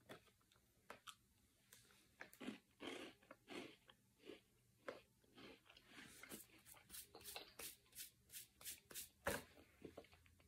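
Faint crunching of a person chewing a crisp hazelnut wafer square: irregular sharp crunches, coming a few times a second in the second half, with one louder crunch near the end.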